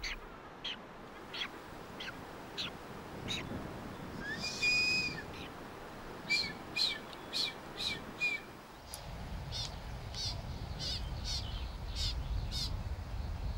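Birds calling: a scattered run of short, high chirps, one longer call about four and a half seconds in, then five short calls in quick succession. A low, steady rumble joins in about nine seconds in.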